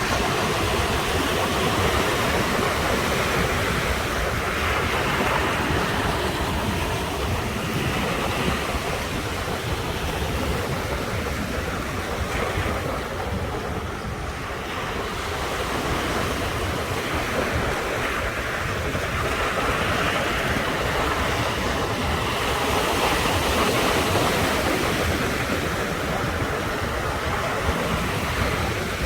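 Ocean surf breaking continuously on the shore, a steady wash that swells and eases every few seconds, with a low rumble underneath.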